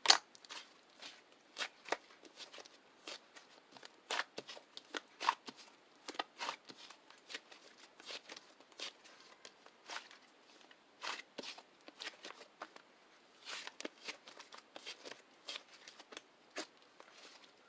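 Fluffy chocolate clay slime being squished and poked by hand, giving an irregular run of crisp clicks and pops, several a second.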